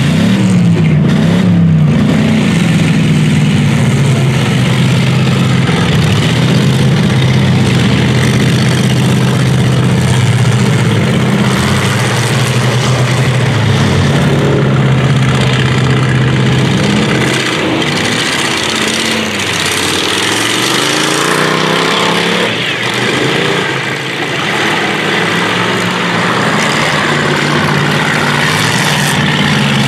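Several demolition derby cars' engines running and revving together, the pitch rising and falling as the drivers rev, with a couple of climbing revs a little past the middle.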